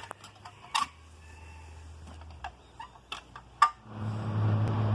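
A few scattered sharp knocks and clicks, then a steady low engine hum of a motor vehicle that swells in about four seconds in and keeps running.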